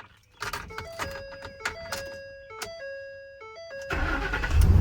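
A run of electronic dashboard chime tones stepping between a few pitches as the key is turned on. About four seconds in, the 2012 Ford F-350's engine cranks and starts, settling into a steady idle.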